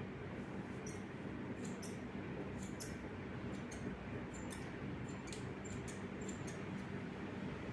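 Hair-cutting scissors snipping: a run of short, sharp, high-pitched snips at an irregular pace, over a steady low background hum.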